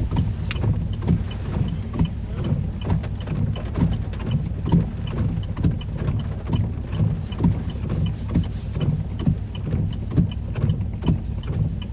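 Low steady rumble inside a stopped truck's cabin, from the idling engine and the buffeting of storm wind, with irregular taps and knocks and a faint regular ticking about twice a second.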